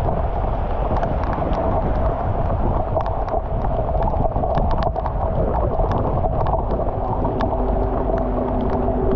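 Storm rain pouring onto a flooded street, with floodwater running and sloshing around rubber boots as someone wades through it, and many small sharp ticks of drops striking. A low steady hum comes in about seven seconds in.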